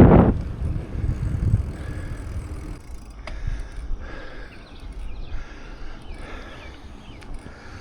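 Wind rumbling on the microphone of a bicycle-mounted camera while riding, with faint high chirps and a few light clicks partway through.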